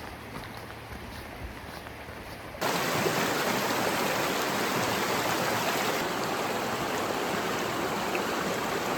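Stream water rushing, a steady even noise. About two and a half seconds in it cuts abruptly to a much louder rush of water.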